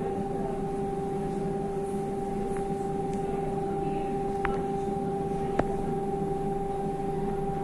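Electric river tram running: a steady whine from its electric drive, one pitch with a higher overtone, over a low rumble, with two faint clicks about halfway through.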